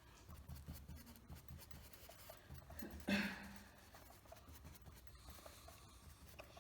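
Faint scratching and rubbing of a paintbrush working acrylic paint onto the painting surface, with one brief louder sound about three seconds in.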